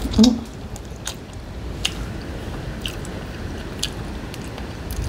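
Close-miked biting and chewing of fried bone-in fish. There is a loud bite just after the start, then sharp clicks of the mouth about once a second.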